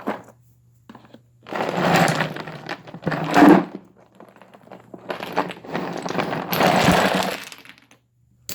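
A set of toy building blocks being dumped out, clattering and tumbling onto the floor in two long pours.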